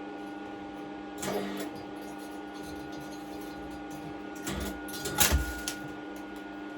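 Welding machine running idle with a steady electrical hum, and a few knocks and clatter of handling, the loudest about five seconds in.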